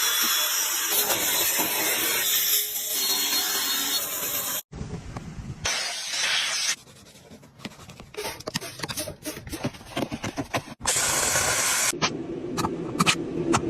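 High-pressure water spray hissing steadily, cut off abruptly several times, with a quieter stretch of clicks and knocks in the middle and another burst of spray near the end.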